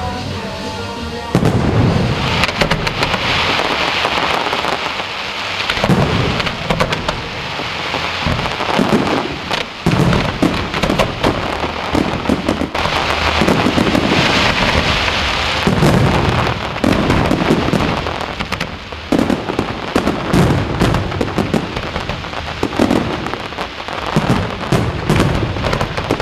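Fireworks display: a dense run of booming shell bursts, one after another, over continuous crackling, beginning about a second in.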